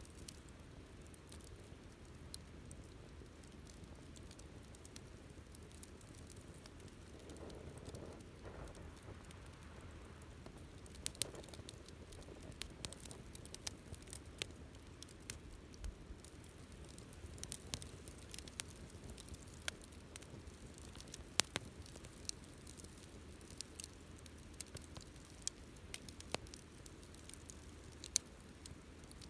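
Wood campfire crackling: scattered sharp pops over a faint low hiss of burning, the pops becoming more frequent about a third of the way in.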